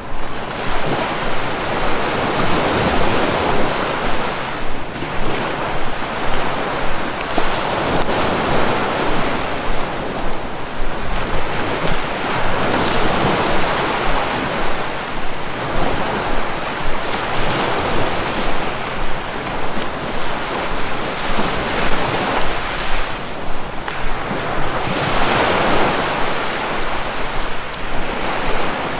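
Sea waves breaking: a steady rush of surf that swells and ebbs every few seconds.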